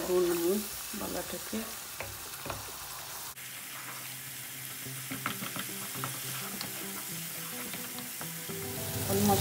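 Food sizzling in hot oil in a pan, with many small scrapes and taps of a utensil stirring it.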